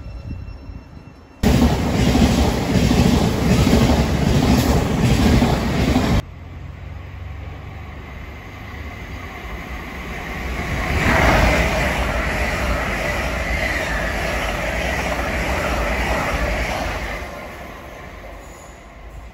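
Electric passenger trains passing through a station. First comes a loud rushing rumble of a train going by, which starts and stops abruptly. Then a Thameslink Class 700 electric unit runs past with a rising rumble and a steady high whine, fading away near the end.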